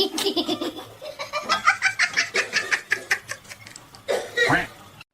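A person laughing hard in a rapid run of short bursts, with a longer laugh or exclamation near the end.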